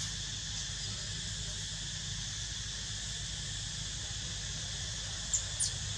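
Steady outdoor insect chorus, a continuous high buzzing hiss, over a low steady rumble. Two short high squeaks falling in pitch near the end.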